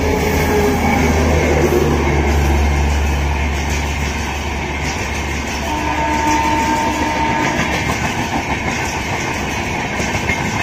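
Humsafar Express passing at speed. There is a deep rumble for the first four seconds or so, then the steady, rhythmic clatter of the coach wheels over the rail joints.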